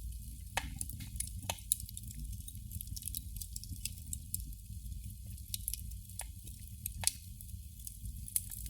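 Candle flame crackling: irregular small pops and ticks, a few louder ones scattered through, over a steady low rumble.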